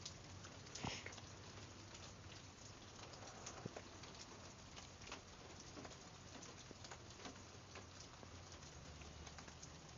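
Faint, steady rain pattering, with scattered individual drips and drops.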